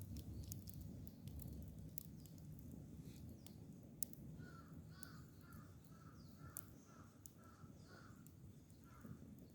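A crow cawing about ten times, roughly two calls a second, starting about halfway through. Faint scattered crackles of a wood campfire sound throughout.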